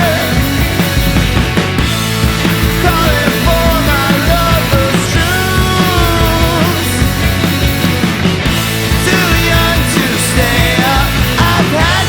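Rock song recording: a full band playing loud and steady, with drums and bass under a lead melody that slides up and down in pitch.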